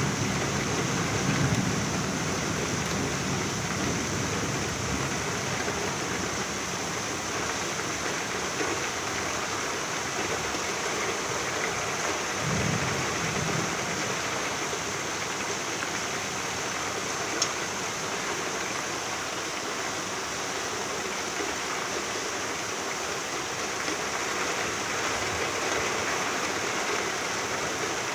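Steady rain falling as an even hiss. A low thunder rumble dies away in the first couple of seconds, a brief low rumble comes about twelve seconds in, and there is a single sharp tick a few seconds later.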